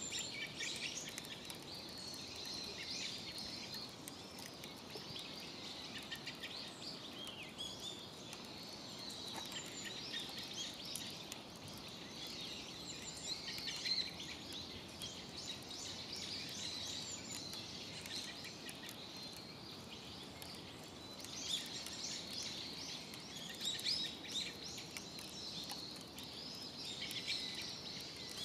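Several small birds chirping and twittering in quick short calls, thinning out for a few seconds past the middle, over a steady low rushing background noise.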